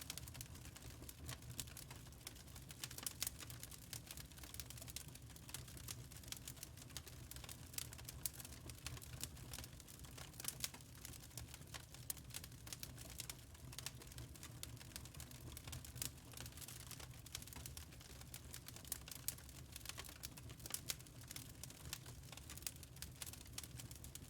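Wood fire in a fireplace crackling: irregular sharp pops and snaps over a low steady rumble of burning.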